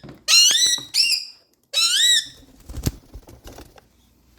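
Pet parrot giving three short high-pitched calls, each sliding up and down in pitch, followed by a single sharp knock about three seconds in.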